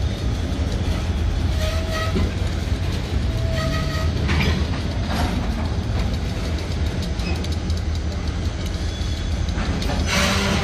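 Freight boxcars rolling slowly past with wheel clicks and clanks over the steady low rumble of diesel locomotives. Two brief squeaks come about two and four seconds in, and a short burst of noise comes near the end.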